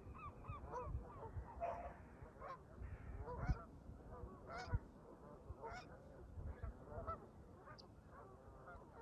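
Canada geese honking, a flock calling over one another with a quick run of honks at the start and scattered calls after, over a low wind rumble.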